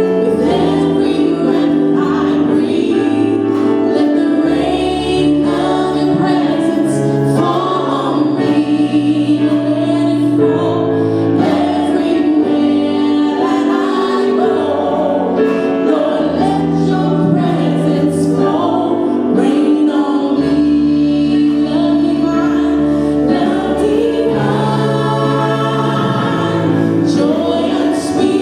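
Church praise and worship team singing gospel-style worship music in choir harmony over instrumental accompaniment, with held chords and a bass line stepping between notes.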